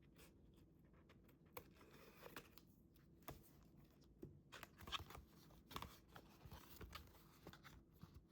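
Soft paper-handling sounds from scrapbooking: scattered light taps, rustles and crinkles of paper, busiest and loudest about five seconds in.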